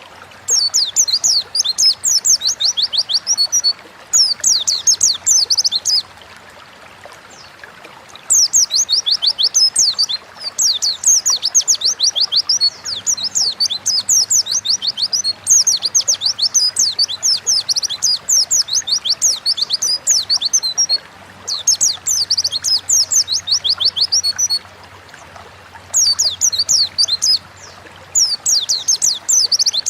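White-eye (pleci) singing: repeated phrases of rapid, high, twittering chirps, each phrase lasting one to four seconds, with short pauses between, over a faint steady background hiss.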